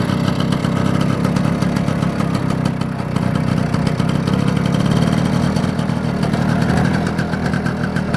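BSA Bantam's 125cc two-stroke single-cylinder D1 engine idling steadily, ticking over evenly after starting.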